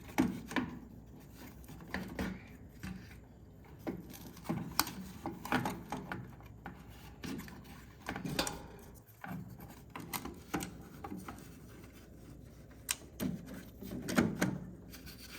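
Irregular light clicks, knocks and scraping of a circuit board and its plastic parts being handled and worked down into a microwave oven's housing.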